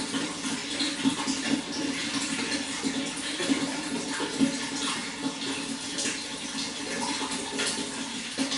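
Running water splashing and trickling steadily, with a low steady hum underneath.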